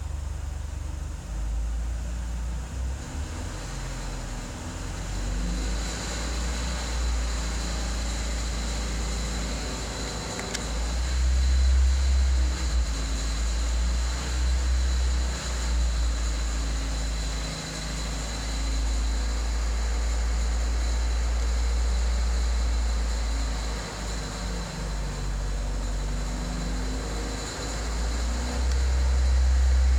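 VW Scirocco 1.4 TSI 160 twincharged four-cylinder engine running, with a steady low drone that swells and eases at times. A thin high whine comes in a few seconds in. The owner takes these for abnormal noises that appeared after 400 km.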